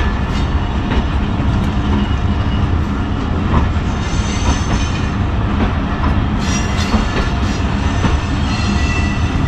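Chaman Passenger train rolling out of the station: a steady heavy rumble of coaches with wheels clicking over rail joints. Thin high wheel squeals come in now and then during the second half.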